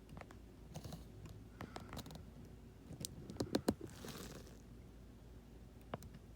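Hands handling parts of an RC model jet: scattered clicks, scrapes and rustling, with a short run of sharper clicks about three and a half seconds in and a brief hiss just after.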